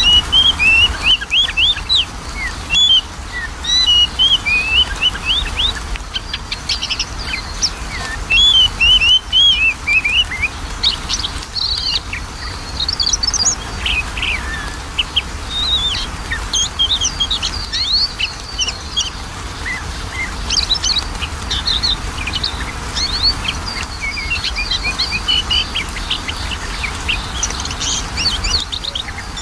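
Oriental magpie-robin (kacer) singing a fast, varied run of whistles and chirps with short pauses, over a low steady hum.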